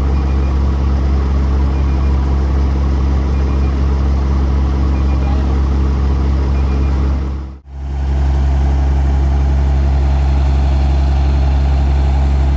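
Diesel engine of heavy construction machinery running steadily, with a brief break in the sound a little past halfway.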